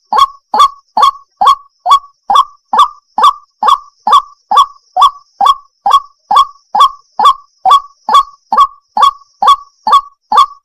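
Recorded lure call of a white-breasted waterhen (ruak-ruak): a short, loud call note repeated in an even rhythm about two to three times a second.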